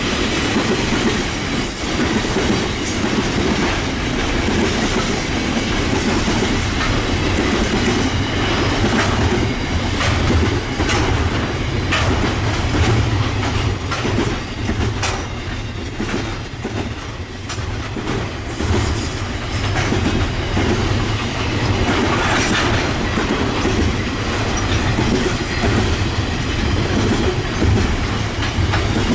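Container freight train rolling steadily past: a low rumble from the wagons, with wheels clicking over rail joints.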